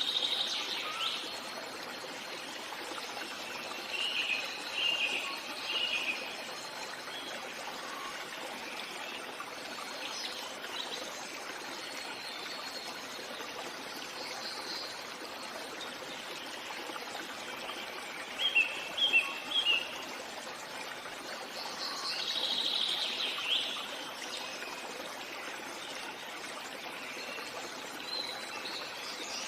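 Birds chirping and singing over a steady rush of running water, with clusters of short, quick chirps a few times.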